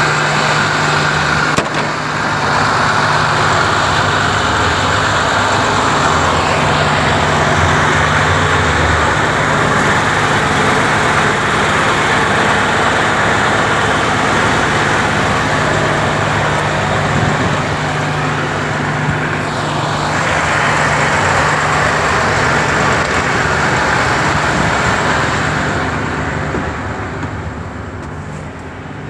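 MAN TGS 35.360 truck's six-cylinder diesel engine running steadily, growing quieter over the last few seconds.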